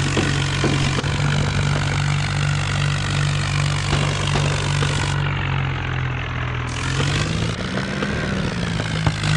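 Mahindra Arjun Novo tractor's diesel engine running steadily, its pitch sagging slightly and then rising briefly about seven seconds in before settling back.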